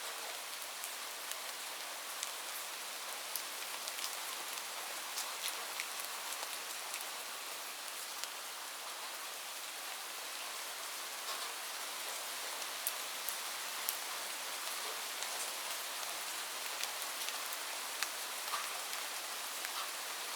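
Light rain falling steadily: a soft, even hiss with scattered ticks of individual drops striking a surface.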